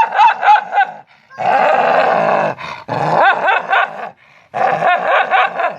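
A dog barking and yipping in quick high-pitched runs, with one longer growling stretch in the middle.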